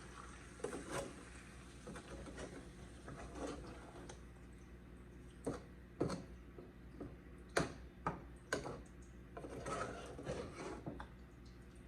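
A utensil stirring chicken and Alfredo sauce in a pan: faint scrapes with scattered light knocks and clicks against the pan, a little busier near the end.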